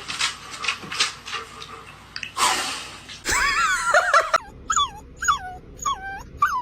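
Husky dog whining and vocalizing: a few short breathy huffs, then one drawn-out wavering whine followed by four short whines, each falling in pitch.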